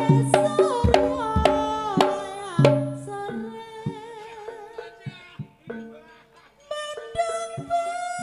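Live Javanese folk-dance ensemble music: hand-drum strokes under a bending, wavering melody line. The music thins out for a couple of seconds midway, then the full ensemble picks up again near the end.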